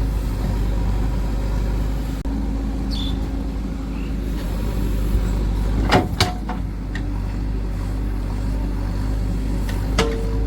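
Heavy diesel engine of a backhoe or tractor running steadily, with two sharp knocks about six seconds in and another near the end.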